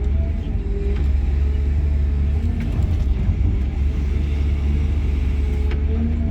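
Cat 323 GC excavator's diesel engine running, heard from inside the cab: a steady low drone with a fainter wavering higher tone over it and a few light clicks.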